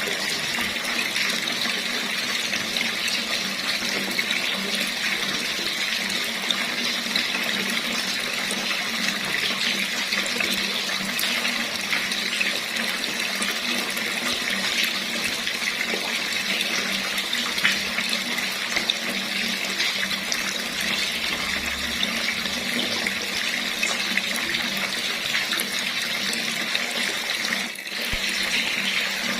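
Water running steadily from a tap, a constant splashing rush with a brief dip in level just before the end.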